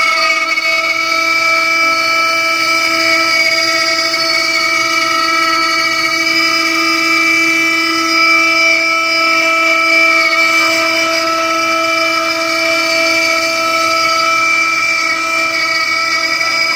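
CNC router spindle running at a steady speed with a compression bit fitted, giving a steady high whine with many overtones.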